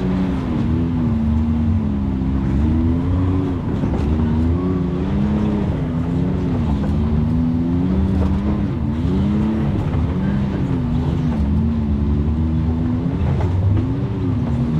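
Side-by-side UTV engine running under a working throttle, its pitch rising and falling every second or two.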